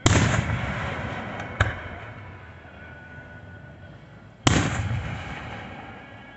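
Fireworks exploding: a loud bang that fades in a long rolling echo, a smaller sharp bang about a second and a half later, and a second loud bang with a long fading echo about four and a half seconds in.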